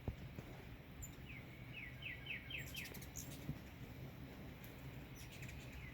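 Birds calling: one bird gives a quick run of about six short notes, followed by a few sharp high chips, over a faint low background hum.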